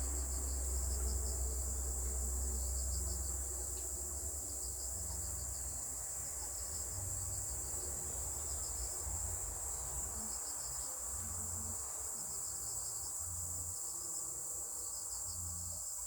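Insects chirping, likely crickets: a steady high trill with repeated pulsed chirps, over a low rumble.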